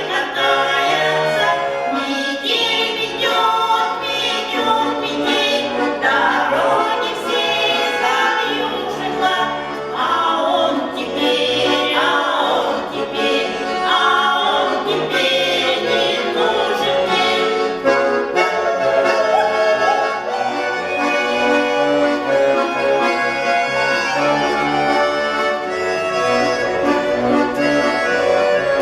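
A vocal group singing a song with instrumental accompaniment.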